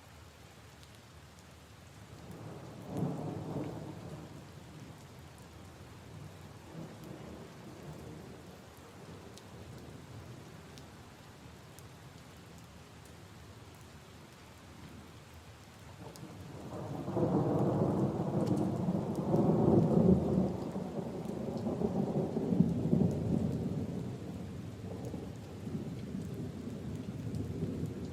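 Steady rain falling on puddles and leaves, with thunder: a short rumble about three seconds in, then a longer, louder rumble from just past halfway that fades slowly toward the end.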